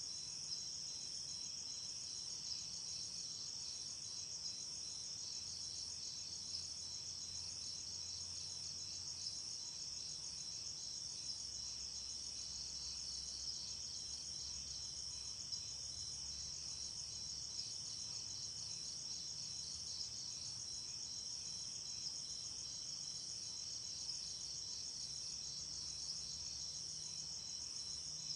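Night insects, crickets, trilling in a steady chorus: one continuous high-pitched buzz with a fast pulse.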